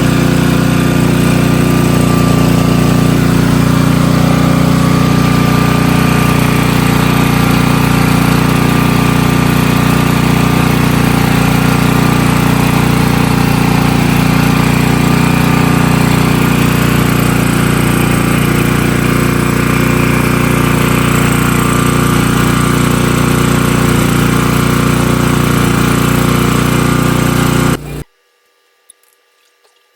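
A 16 hp gasoline engine on a Hotsy pressure washer running steadily and loudly, stopping abruptly near the end.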